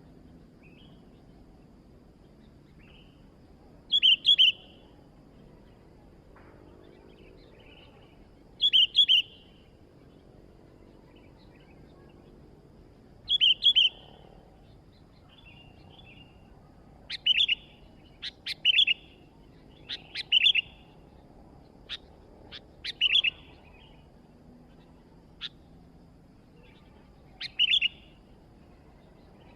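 Sooty-headed bulbul (kutilang) calling: short bright chirps about every four to five seconds, then a quicker run of sharp notes about halfway through, before slowing again.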